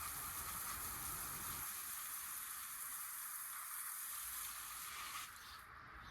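Steady hiss of falling rain, cutting off abruptly about five seconds in.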